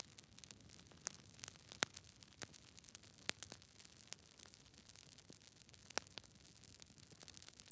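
Campfire crackling: irregular sharp pops and snaps over a faint steady hiss, with the loudest pops about a second in, near two seconds, just past three seconds and at six seconds.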